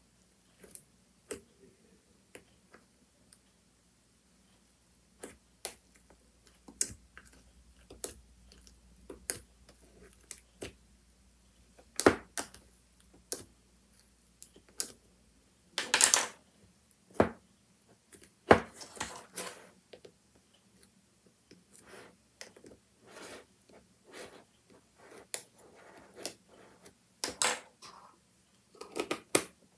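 Homemade slime being pressed, stretched and poked by hand, making irregular sharp clicks and pops with a few longer wet squishes.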